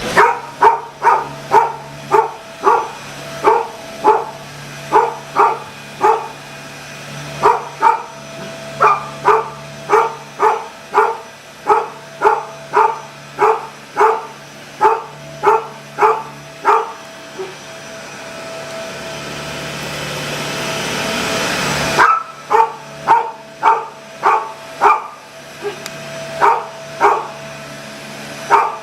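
Collie barking over and over, about two or three barks a second, over the steady hum of a running vacuum cleaner. The barking stops for several seconds near the middle while the vacuum noise swells, then starts again.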